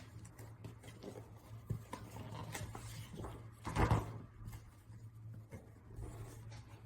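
Quiet room tone with a steady low electrical hum and a few soft handling clicks and rustles, the loudest about four seconds in.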